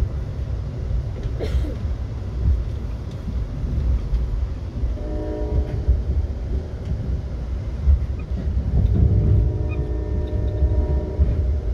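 Passenger train's low, steady rumble heard from inside the coach as it runs on the rails, with the locomotive horn sounding muffled through the car: a short blast about five seconds in and a longer blast from about nine seconds in, as the train whistles for a road crossing.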